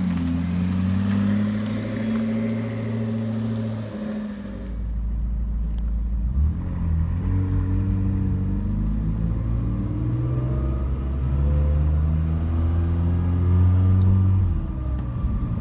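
Car engine running, steady at first. Then its pitch climbs slowly over several seconds as it pulls harder, and it drops back near the end.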